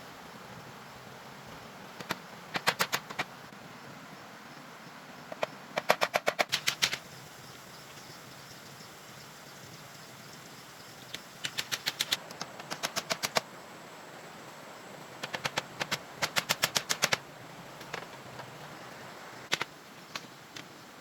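Rapid sharp knocks, about ten a second, in four runs of one to two seconds each, with a few single knocks between the runs.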